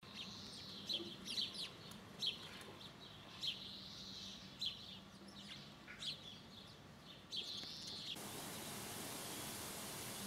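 Small birds chirping: short, high, sharp chirps, singly and in quick pairs, about once a second. About eight seconds in they stop abruptly and a steady hiss takes over.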